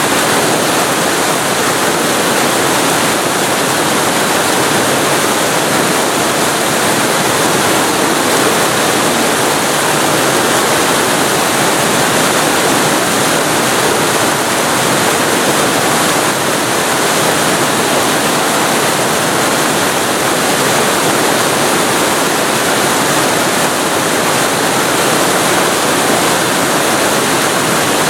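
Waterfall heard from very close: a loud, steady rush of falling water, even and unbroken.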